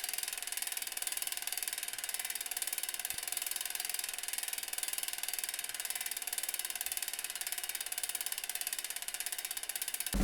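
Bicycle rear hub freewheeling, its pawls clicking rapidly and steadily over the ratchet as the wheel spins without pedalling.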